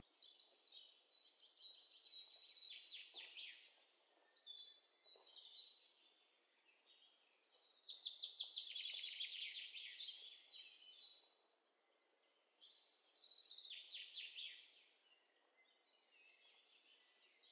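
Faint birdsong: several bursts of rapid high chirps and trills, loudest about eight to ten seconds in.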